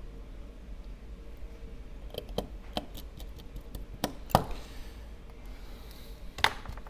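Small metal repair tools and phone parts being handled during iPhone reassembly: scattered light clicks and taps, with two louder sharp knocks about four and a half and six and a half seconds in.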